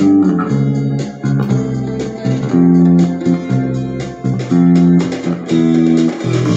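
Instrumental break of a 1970s pop-rock band recording: an electric bass plays a simple melodic line under guitars, with no singing.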